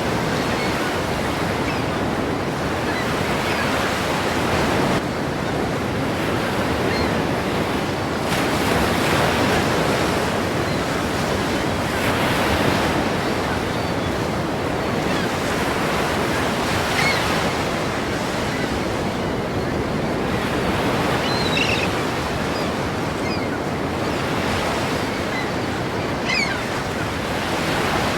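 Ocean surf: waves breaking and washing in continuously, swelling and easing every few seconds.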